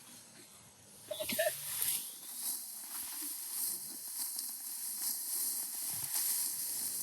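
Rice stalks rustling and crackling as they are cut by hand with a sickle and gathered, a steady hiss of many small strokes that grows louder after about a second. A brief pitched, voice-like sound comes just after one second.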